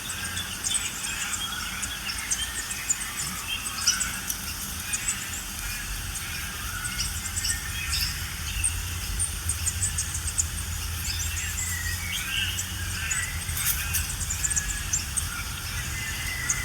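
Background chorus of several small birds chirping and calling in short, scattered notes, over a steady low rumble.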